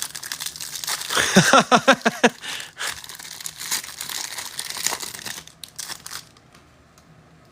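Trading card pack wrappers being torn open and crinkled by hand, a dense crackling with sharp ticks that dies away near the end. A short vocal sound comes through about a second and a half in.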